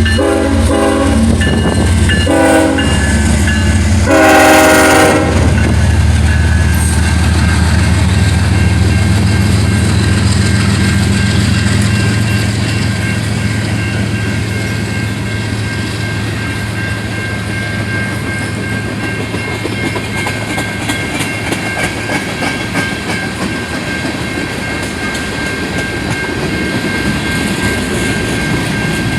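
Train horn sounding a few blasts, the longest and loudest about four seconds in, over the low rumble of the locomotive passing slowly. Then the train's cars roll by with a steady clatter of wheels on the rails, and the engine rumble fades after about twelve seconds.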